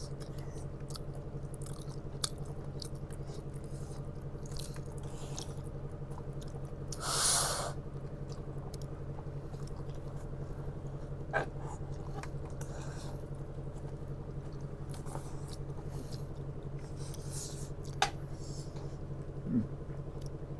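Close-up eating sounds of spicy noodles: scattered chewing clicks and a louder slurp about seven seconds in, over a steady low hum.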